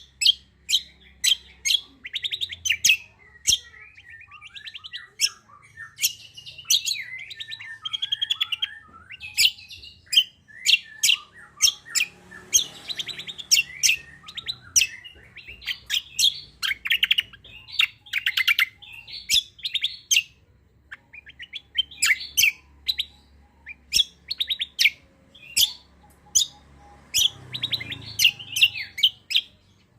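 Kecial kombo songbird singing vigorously. It gives a fast stream of sharp, high chips several times a second, mixed with twittering warbled phrases, with only brief pauses.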